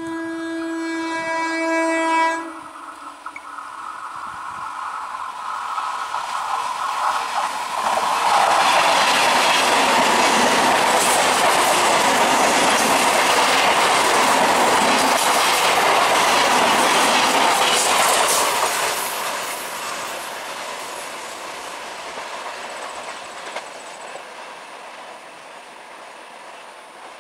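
Indian Railways EMU local train sounding its horn for about two seconds as it approaches. It then passes close by, its wheels clattering over the rail joints, loudest about halfway through, and fades away as it runs on.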